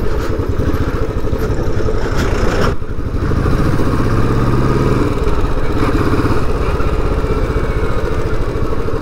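Royal Enfield Bullet 350's single-cylinder engine running steadily as the motorcycle rides along, dipping briefly about three seconds in.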